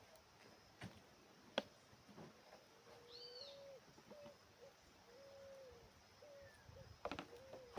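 Faint bird calls: a higher arched call about three seconds in, then a series of low, level notes running into the end. A few sharp clicks stand out, the loudest about a second and a half in and a quick cluster near the end.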